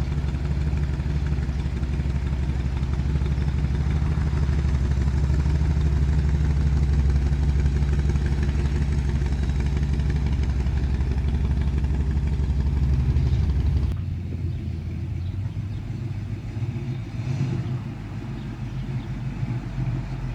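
A motorcycle-type engine runs with a steady low note. About fourteen seconds in, its sound drops suddenly in level and settles into a rougher, lower running.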